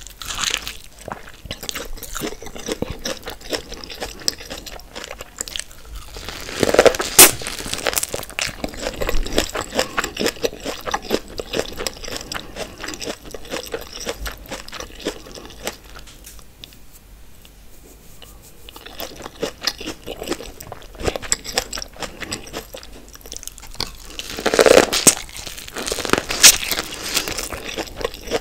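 Close-miked biting and chewing of sauce-coated corn on the cob: repeated crunchy bites and mouth sounds. There are louder bursts of biting about a quarter of the way in and near the end, with a short lull a little past the middle.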